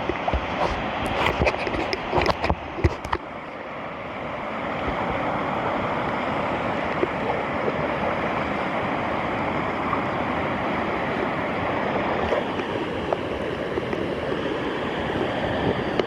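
Rushing whitewater of a river rapid, a steady loud rush that swells up about four seconds in and holds. In the first few seconds, sharp splashes and knocks sound over it.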